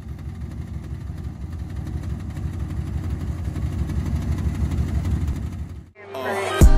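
A 1972 Oldsmobile Cutlass Supreme's V8 engine running at idle with an even low pulse, growing slightly louder. About six seconds in it cuts off and intro music starts with a deep bass hit.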